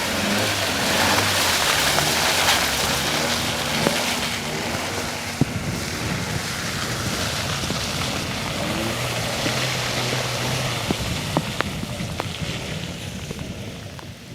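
Hyundai Tucson's engine revving up and down as it drives through mud, under a heavy rush of tyres churning and splashing through mud and water, with scattered sharp clicks. The sound fades over the last few seconds.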